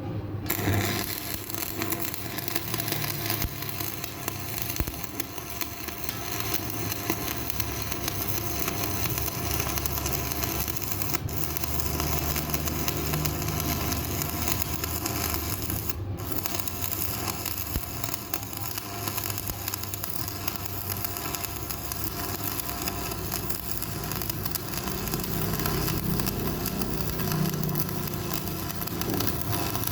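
Electric arc welding on a cracked steel truck wheel rim: a steady crackling hiss of the arc, with a low machine hum underneath.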